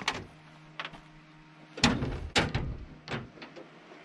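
Several sharp knocks and clatters, bunched about two seconds in with another a moment later, over a faint steady hum.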